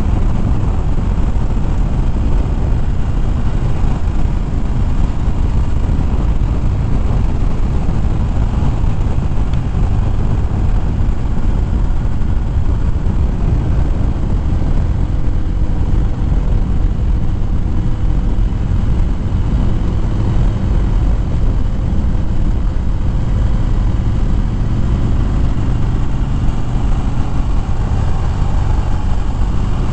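Harley-Davidson Fat Bob V-twin running at road speed, with steady wind noise on the riding microphone.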